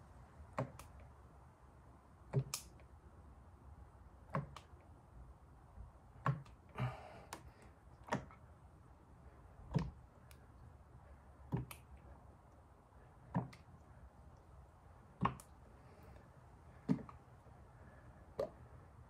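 Engine oil glugging from its container as it is poured into the engine. A short burp comes about every two seconds as air gulps back in, because the container is tipped on the side that doesn't let the air out.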